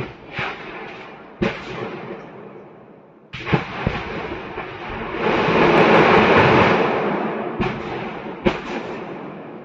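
Ammunition depot cooking off: a string of sharp secondary explosions at irregular intervals, with a longer rushing blast that builds and fades in the middle, the loudest part.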